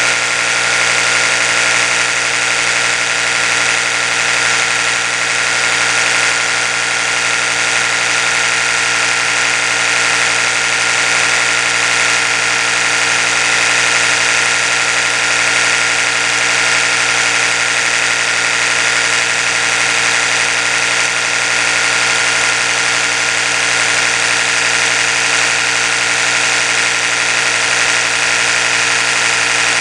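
Oral-B electric toothbrush running steadily: an even motor buzz that holds one constant pitch throughout.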